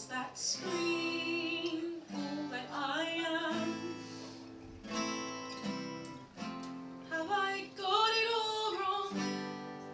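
Acoustic guitar strumming chords while a singer holds long, wavering notes, in a musical theatre song.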